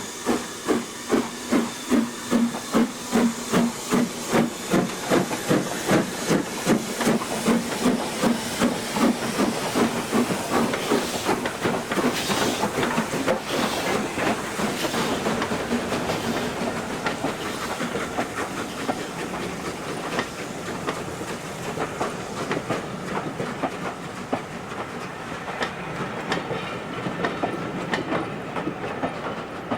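Steam locomotive working hard, its exhaust beats about two a second and quickening until they blur into a steady rush around the middle. Later come the rolling clicks of the train's wheels passing over the rail joints.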